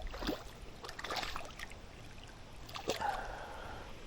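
River water splashing and sloshing: three short splashes over the steady wash of the flowing river.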